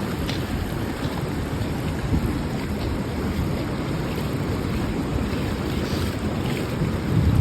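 Wind buffeting the microphone: a steady rushing noise with a rumbling low end that swells and dips.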